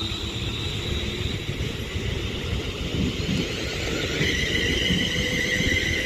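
Class 350 Desiro electric multiple unit pulling away, its traction equipment giving a steady electric whine over a low rumble; about four seconds in, a new pair of whine tones sets in as it accelerates.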